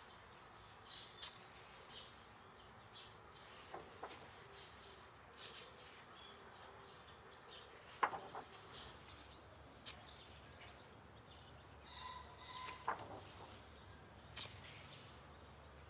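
Pages of a coloring book being turned and handled: soft paper rustles with several sharper page flips, the loudest about eight seconds in.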